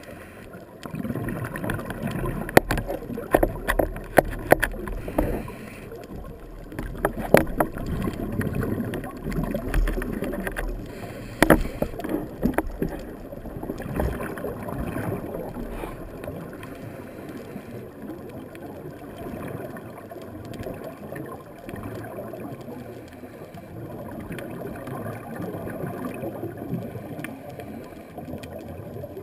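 Underwater sound of a scuba diver's breathing: regulator breaths and exhaled bubbles gurgling, with sharp clicks and knocks through the first half.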